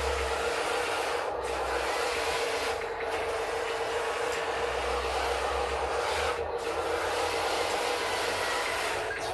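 A steady machine noise: an even hiss with a constant hum under it, briefly easing off in the treble about four times.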